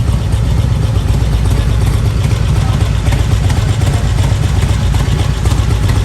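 Motorcycle engine running steadily, loud and low.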